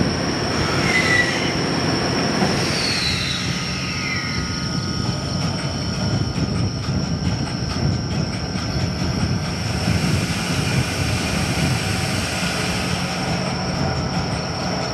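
Train hauled by the D51 steam locomotive running past: a steady rumble of wheels on the rails with some clickety-clack. A high squeal falls in pitch a few seconds in.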